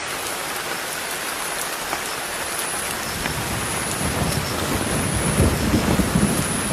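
Steady hiss like heavy rain, with low rumbles building from about four seconds in.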